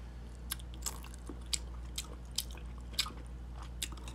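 A person eating from a spoon close to the microphone: chewing and wet mouth smacks, heard as a run of short sharp clicks, several a second.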